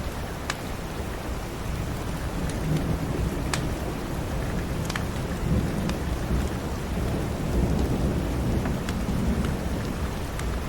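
Steady rain with a low rumble of thunder swelling and fading through the middle, and a few sharp scattered crackles from a wood fire in a fireplace.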